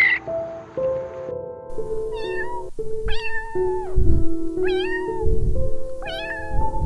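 A domestic cat meowing about four times, each meow about half a second long and rising then falling in pitch, over soft background music.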